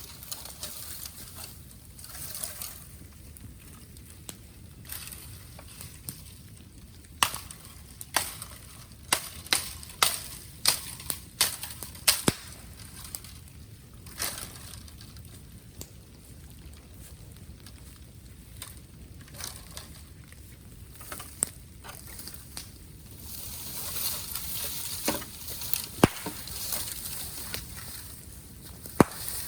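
Bamboo bonfire crackling, with irregular sharp pops and cracks that come in a quick run around the middle, and a stretch of hissing near the end.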